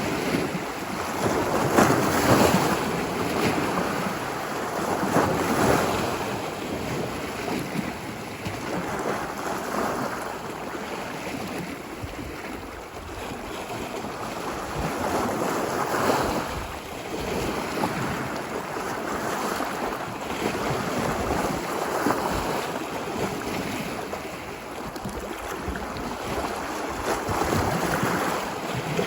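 Ocean surf: waves breaking and washing up a beach in a continuous rush that swells and falls every few seconds.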